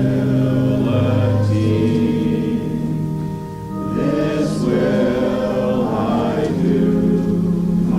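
Congregation singing a hymn with instrumental accompaniment, long held notes with a brief dip between phrases about three and a half seconds in.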